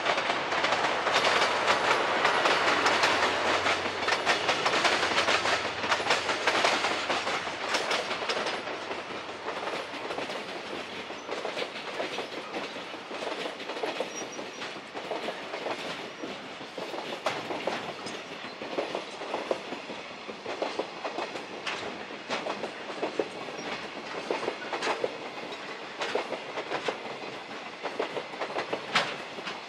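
Container freight train passing, its wagon wheels clattering and clicking over the rail joints. It is loudest for the first several seconds, then quieter, with scattered sharp clicks.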